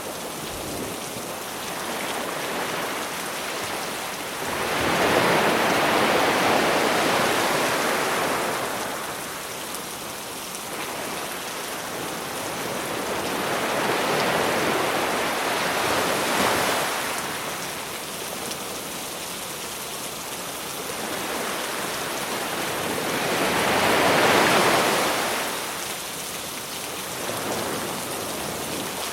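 Sea waves breaking on the shore under a steady hiss of rain. Three waves surge and fade about nine seconds apart, the one about two-thirds of the way in the loudest.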